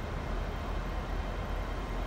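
Train approaching along the line, a steady low rumble with a faint hiss.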